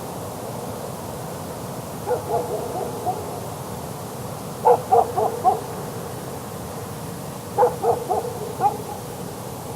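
A lone dog barking, heard from about four miles away: three bouts of four or five short, hoot-like barks, roughly two and a half seconds apart, over a steady hiss.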